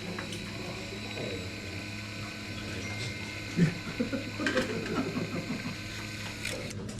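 Small wakasagi fishing reel running, its gears clicking and rattling rapidly for about three seconds after a sharp knock around the middle. A steady low hum lies underneath.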